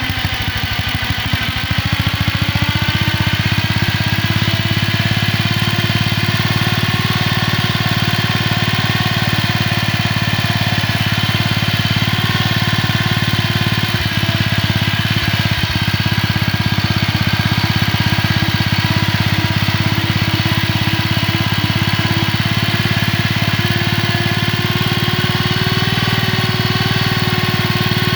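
1947 Gibson Model D tractor engine running as the tractor is driven. Its speed picks up over the first couple of seconds, then holds steady.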